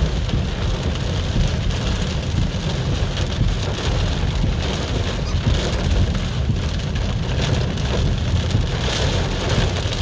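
Hard rain beating on a moving car, heard from inside the cabin, over the steady low rumble of the car driving.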